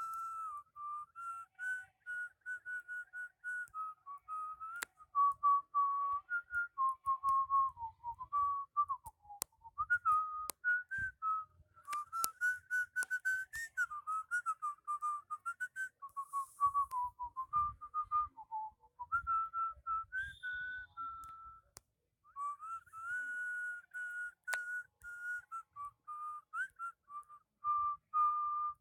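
A person whistling a slow, wandering tune, one clear note at a time, with short breaks between phrases. A few faint clicks are scattered through it.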